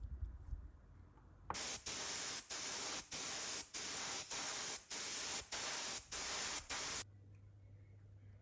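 Paint being sprayed in a run of about ten short hissing bursts, each around half a second with brief breaks between, starting about a second and a half in and cutting off suddenly about seven seconds in. A brief low thump comes right at the start.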